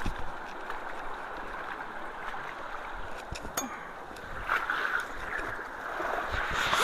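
Rain-swollen creek water rushing steadily into a culvert, getting louder and gurgling from about halfway in as the freed flow swirls through. A few low bumps on the microphone.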